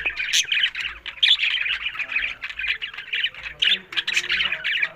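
Budgerigars chattering and squawking continuously, several birds calling over one another in quick warbling notes with sharp shrill squawks.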